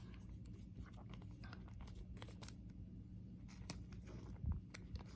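Faint, scattered clicks and light rustling of trading cards being handled, over a low steady hum.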